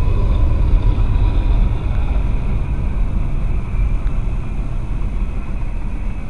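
Norfolk Southern diesel locomotives passing, followed by freight cars rolling by on the rails: a loud, steady low rumble that eases off gradually as the train goes past. A faint whine fades out in the first second or two. The sound is heard from inside a car.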